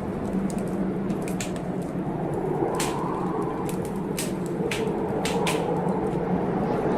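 Wood fire crackling with irregular sharp pops, over a steady low rush of blizzard wind.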